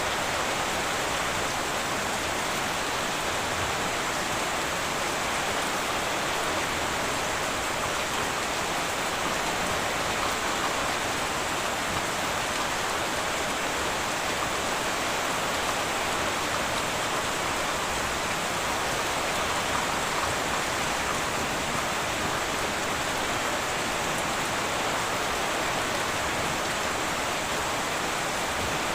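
Heavy rain falling steadily on a tin roof, an even rushing hiss with no thunder.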